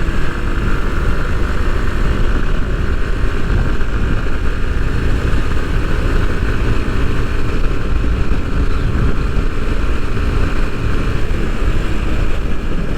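Bajaj Pulsar NS 160's single-cylinder engine running steadily as the motorcycle cruises on the highway, under a constant rush of wind and road noise on the microphone.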